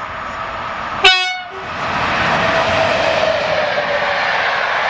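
EU07 electric locomotive sounds a short horn toot about a second in, then the locomotive and its passenger coaches pass close by with loud, steady wheel-on-rail rolling noise.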